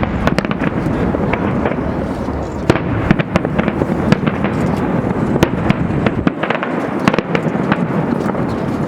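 Fireworks display: a dense, continuous crackle of many bursts, with a few sharper bangs standing out. The deep rumble under it falls away about six seconds in.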